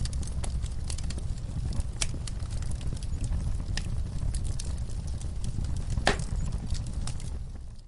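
Wood fire in a fireplace burning with a steady low rumble and scattered sharp crackles and pops, one louder pop about six seconds in. The sound fades out near the end.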